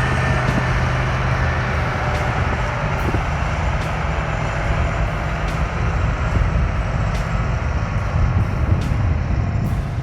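Heavy vehicle's diesel engine running steadily under a rough mechanical noise.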